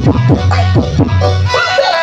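Loud dance remix music played through a large horeg sound system with a bank of 18-inch subwoofers. A heavy bass kick hits about twice a second and drops out about a second and a half in, leaving the melody.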